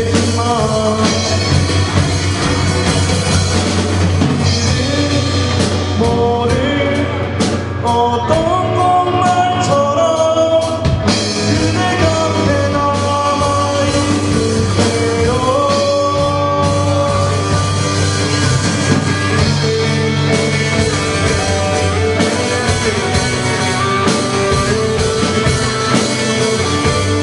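Live rock band playing a song, with drums and bass under a melodic lead line that glides up and down.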